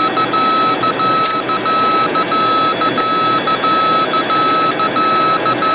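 Morse-code identifier tone from a radio navigation beacon on the cockpit audio, a single pitched beep keyed in long and short dashes and dots, over the steady noise of the Boeing 737-200's flight deck in the climb.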